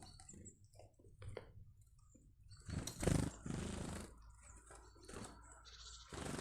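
Birds at a garden feeder: several short rustling, fluttering bursts, the loudest about three seconds in, with a few faint chirps.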